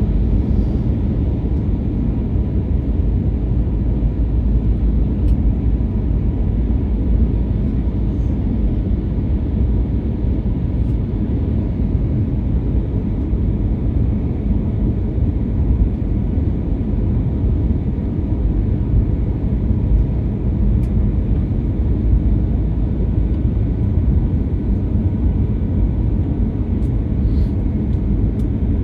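Airliner cabin noise in flight: a steady low rumble of engines and rushing air, unchanging throughout, with a few faint ticks.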